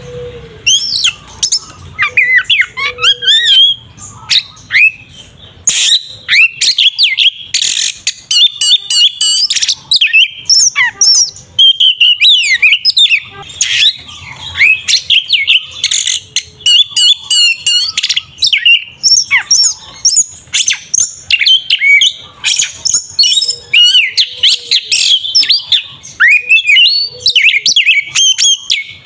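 Oriental magpie-robin (kacer) singing a loud, fast, varied song of rising and falling whistles, chirps and harsh rasping notes with hardly a break: the aggressive 'fighting' song (kacer tarung) used to provoke other males.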